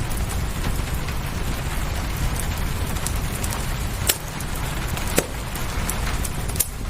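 Steady rain with a low rumble beneath it, and the sharp pops and snaps of a crackling wood fire, the loudest pops about four and five seconds in.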